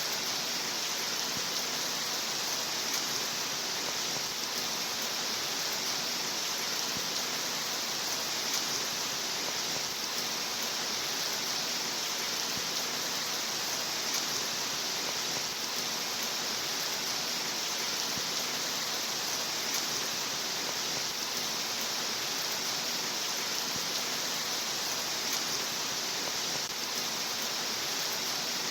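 Steady, unbroken rain, an even hiss with no single drops or gusts standing out.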